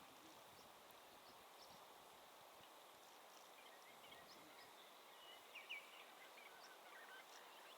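Faint, scattered bird chirps and short calls against a near-silent background.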